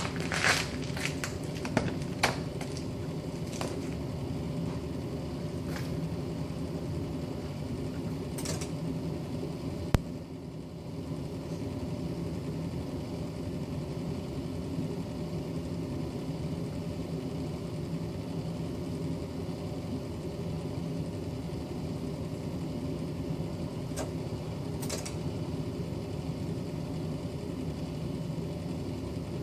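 Steady hum from a 1996 Volvo 940 diesel car, with a few sharp clicks near the start and one about ten seconds in, after which the hum briefly drops and recovers.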